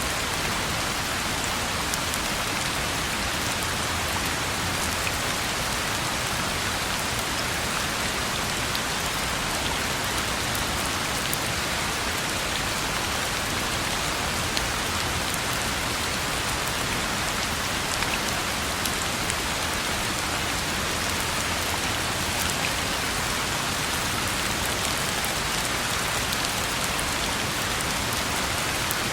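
Steady rain falling on a road, an even hiss with scattered sharp drop ticks.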